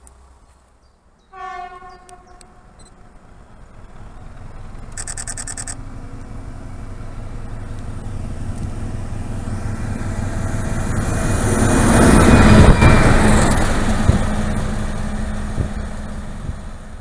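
Train passing close by: a short horn blast about a second in, then the rumble and wheel noise of the train build up, peak a little after twelve seconds as it goes by, and fade away. A brief high-pitched tone sounds about five seconds in.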